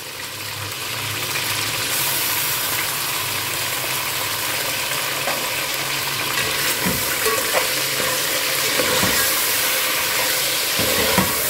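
Chicken pieces with ginger-garlic paste sizzling in hot ghee in a metal pot: a steady frying hiss that builds over the first two seconds. In the second half a spoon stirs and scrapes against the pot, with a few short knocks.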